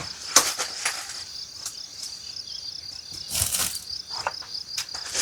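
Crickets chirping in a steady, high, finely pulsing trill, with a few scattered sharp crackles and knocks.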